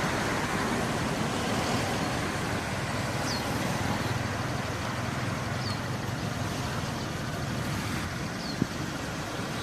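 Steady rushing road noise of a motor vehicle, with three short high chirps spread through it and a single sharp click near the end.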